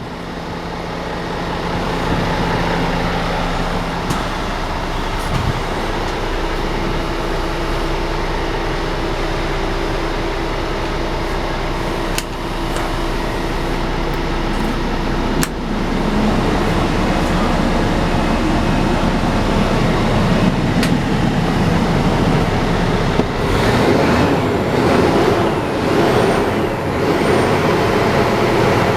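Scania 8x4 tipper truck's diesel engine running steadily, then louder and rougher about halfway through, with a couple of sharp clicks.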